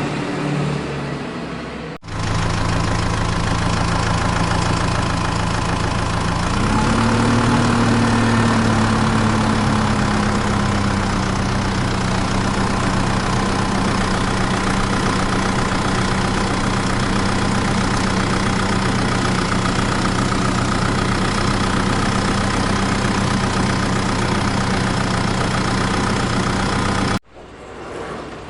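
Vehicle engine running steadily at idle. About seven seconds in it revs up briefly, then settles back to a steady run. The sound changes abruptly about two seconds in and again near the end.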